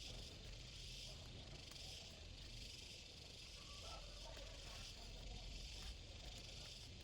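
Faint, steady high hiss over a low hum: quiet background ambience, with no clear event.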